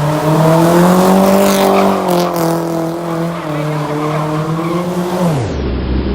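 Car engine held at high revs while the tyres squeal, as in a burnout or donut. The engine note wavers slightly, then falls sharply about five seconds in as the revs are let off.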